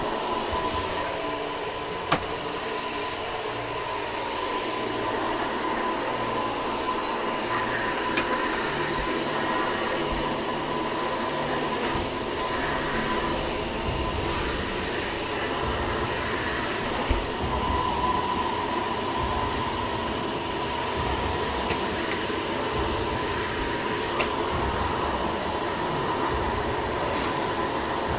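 Vacuum cleaner running steadily, with a few brief sharp knocks.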